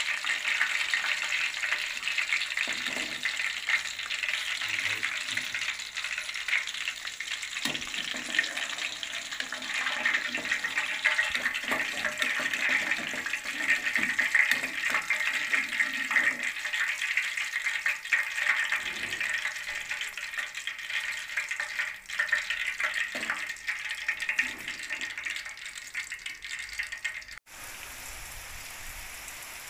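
Chicken pakoras deep-frying in hot ghee: a steady, dense sizzle and crackle of the frying fat. About two seconds before the end it cuts suddenly to the steady hiss of heavy rain.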